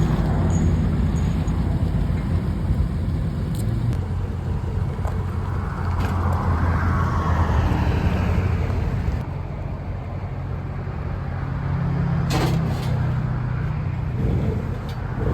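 Motor vehicle engine running steadily, a low hum with a couple of sharp clicks about three-quarters of the way through.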